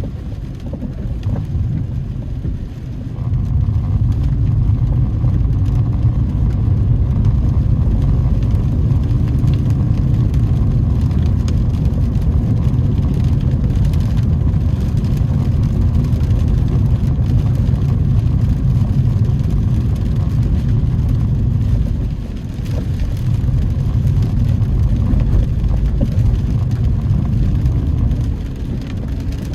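Car driving on wet roads, heard from inside the cabin: a steady low rumble of engine and tyre noise. It grows louder about three seconds in and eases off briefly twice, around two-thirds through and near the end.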